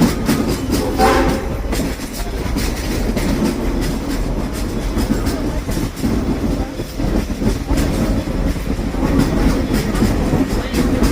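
Steam train heard from aboard a passenger car on the move: a steady rumble of the running train with wheels clicking and clacking over the rail joints.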